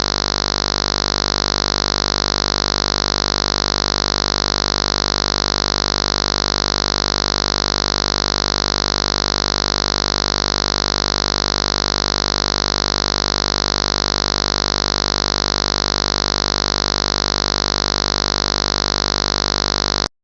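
Loud, harsh static hiss, completely steady and unchanging, cutting off abruptly near the end.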